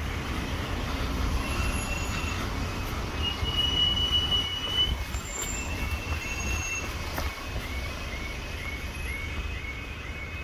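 Train running over the rails at a level crossing: a low rumble with several drawn-out high wheel squeals. From about six seconds in, a level crossing warning alarm sounds in short repeated tones, a little over two a second.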